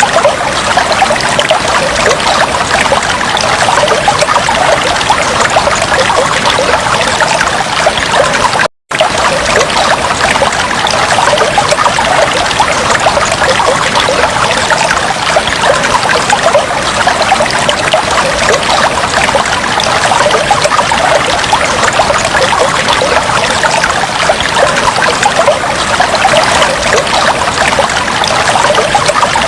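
Water trickling steadily in a fish tank, with a fine, even splashing. About nine seconds in, it briefly cuts out to silence for a moment.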